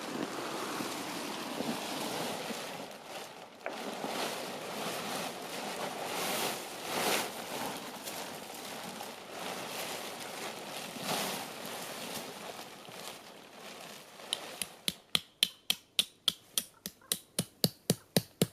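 Rustling and handling noise while a lavvo tent is being pitched. Near the end, a quick run of sharp knocks, about five a second, with a slight metallic ring.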